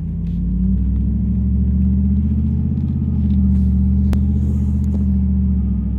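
A vehicle's engine and road noise heard from inside the cabin while driving: a steady low rumble. A single sharp click a little after four seconds in.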